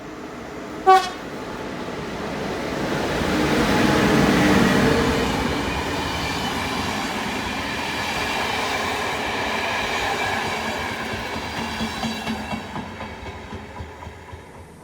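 A train gives a short horn blast about a second in, then approaches and passes close by, loudest a few seconds in, its wheels clicking over the rail joints as it fades away.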